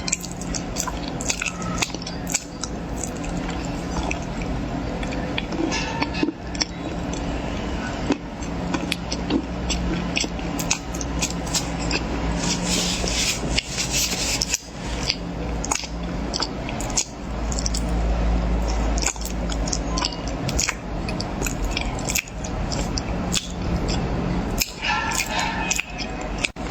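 Close-miked eating of corn: crunchy bites and chewing, with many sharp crackles and clicks.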